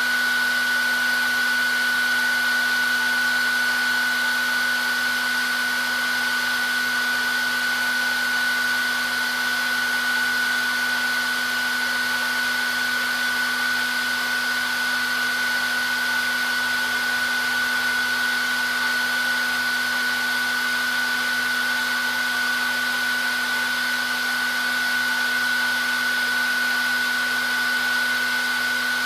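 Hair dryer running steadily, its fan noise with a constant high whine.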